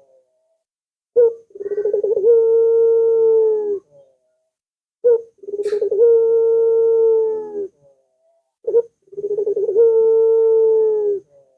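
Puter dove (Barbary dove) cooing, three times: each call is a short note followed by a long, steady, held coo of about two seconds.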